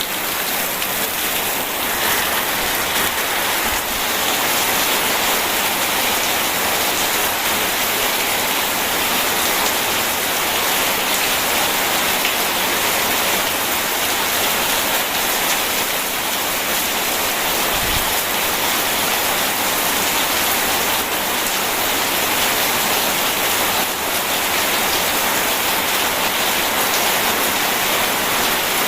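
Steady, heavy rain falling on surfaces: a dense, even hiss with no breaks.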